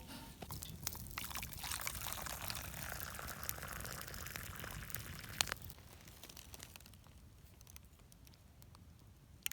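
Hot tea poured from a camp pot into a mug, the pitch of the stream rising as the mug fills. It stops with a sharp click about five and a half seconds in, followed by a few faint clicks.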